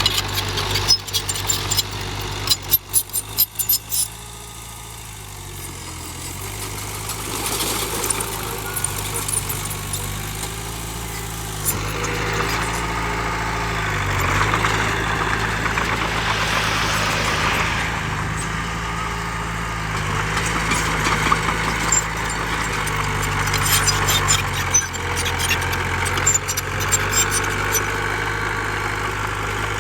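Heavy diesel engine of earthmoving machinery running steadily, its pitch shifting now and then, with bursts of sharp clatter in the first few seconds and again near the end.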